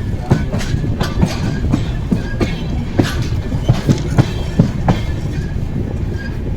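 Amrit Bharat Express train running on the line: a steady low rumble with irregular clicks and knocks, several a second, as the coach wheels pass over rail joints. The clicks thin out near the end.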